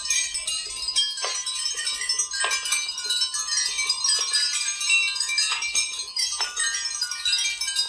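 Many glass marbles clinking and rattling against each other and the track as they run down a marble run, a dense, continuous jingle of high ringing clicks with a few sharper knocks.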